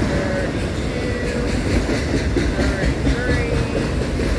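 Loaded autorack freight cars of a long train rolling past close by, a steady heavy rumble of wheels on rail with clickety-clack. Intermittent wavering squeals come and go over it.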